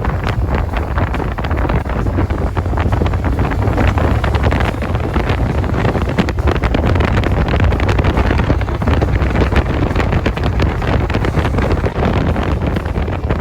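Wind buffeting the microphone of a moving motorcycle, a steady loud rumble and flutter over the bike's engine and road noise.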